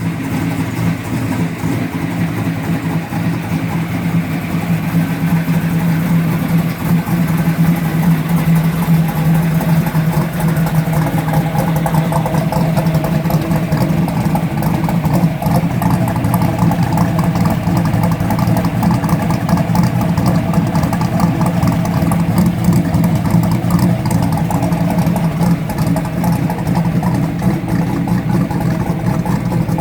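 Oldsmobile engine in a 1982 Buick Regal running at a steady idle.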